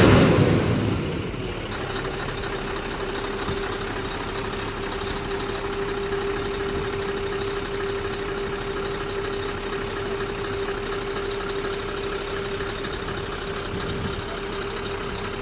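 Scania R620's 16-litre V8 diesel idling steadily, with a constant hum running through it. A loud rush of noise at the start fades away within the first second or two.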